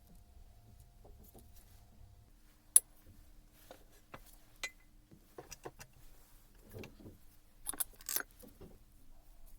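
Small metal parts and tools being handled on a workbench: scattered light clicks and clinks, with one sharp click about three seconds in and a cluster of clinks near the end.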